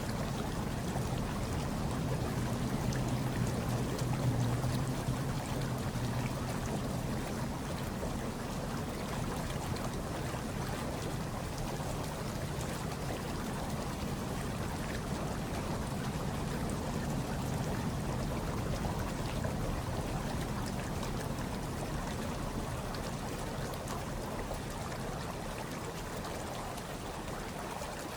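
Hot tub water churning and bubbling steadily, with a low rumble underneath.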